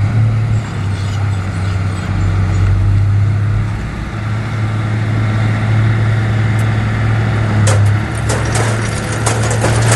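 Heavy diesel earthmoving machinery running steadily under load, a deep engine drone. In the last couple of seconds a rapid run of clattering knocks comes in, like soil and stones tumbling or track plates clanking.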